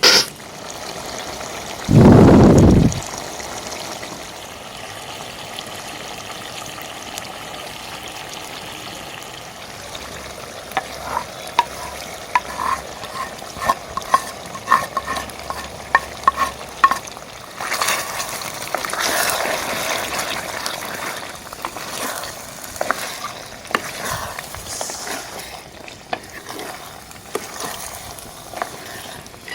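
Curry frying in a cooking pot (handi) as it is stirred, a steady sizzle with scraping and a run of light clinks in the middle. A loud, low rumble lasts about a second, about two seconds in.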